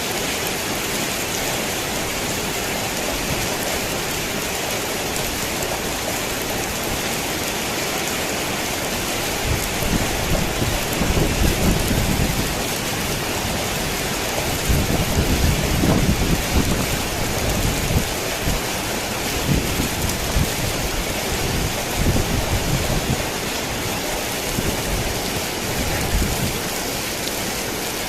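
Steady rain drumming on a tin roof. About ten seconds in, thunder starts rumbling in long rolling waves, loudest around the middle, and dies away near the end.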